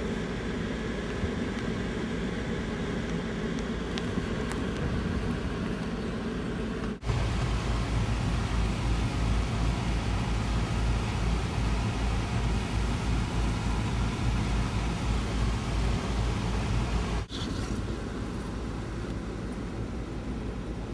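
Four-wheel-drive vehicle driving on snowy roads, heard from inside the cabin as steady engine and road rumble. The rumble grows louder about seven seconds in and eases again near the end, with two brief cut-outs at those points.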